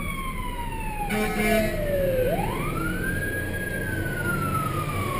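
Emergency vehicle siren in a slow wail: the pitch falls steadily, sweeps back up about halfway through, then falls again. A short low blast sounds about a second in, over a low rumble of traffic.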